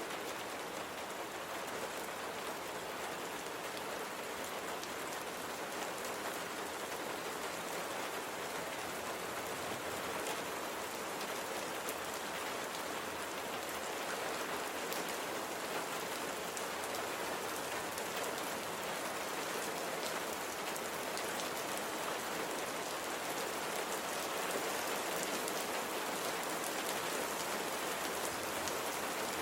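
Steady rain falling on a surface, a continuous hiss with many small drops pattering through it.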